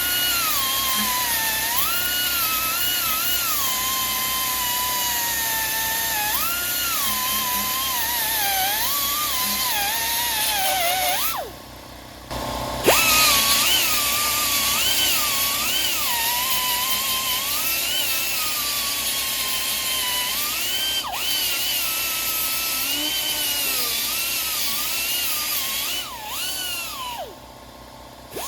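Angle grinder grinding down welds on sheet metal, a high whine that wavers in pitch as it is pressed into the work. Twice, near the middle and near the end, the pitch sinks and the grinder stops for about a second before starting again.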